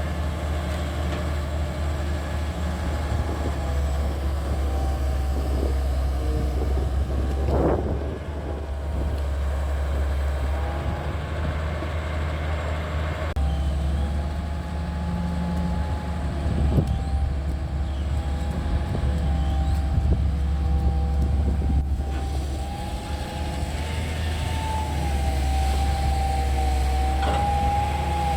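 Excavator's diesel engine running with a steady low rumble, under a wavering high whine from the hydraulics, with a few knocks as it works.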